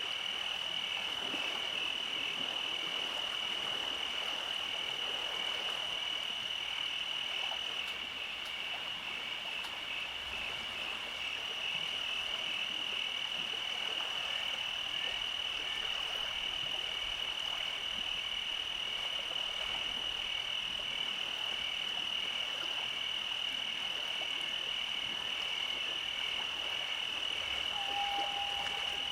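Night chorus of many frogs croaking continuously, over a steady high-pitched trill. A short single note sounds near the end.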